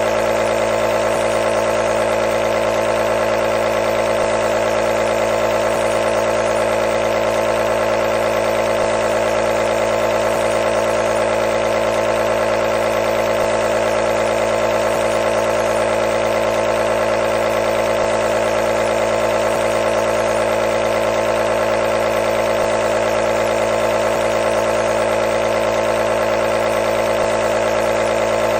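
Nebulizer's compressor motor running continuously with a steady buzzing hum and a hiss of air, strongest in a mid-pitched drone, without any change.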